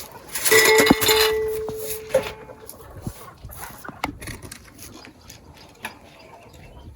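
Chickens calling, with one loud, hoarse call about half a second in that lasts about two seconds, followed by quieter scattered clicks.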